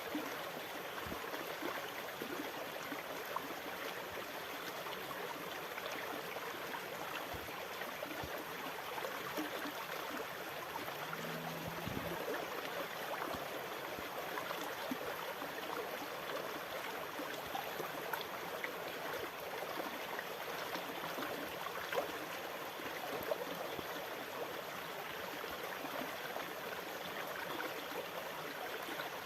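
Sea water washing continuously, a steady even rush with no distinct wave surges.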